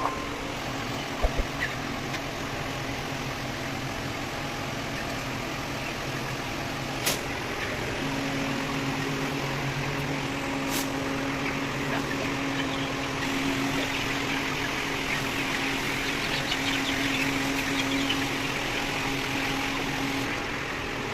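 A machine running steadily, a low drone with a hum that sets in about eight seconds in, with two sharp clicks along the way.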